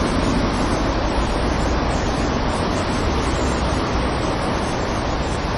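Stormy sea surf: waves crashing in a steady, dense wash of noise with a heavy low rumble.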